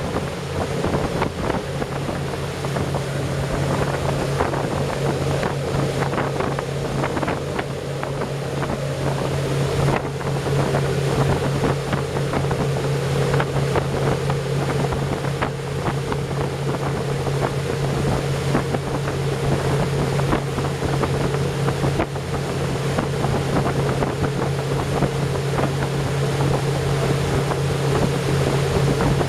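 Engine of a 43-foot boat running steadily, a constant low hum under a continuous rush of noise, with wind buffeting the microphone.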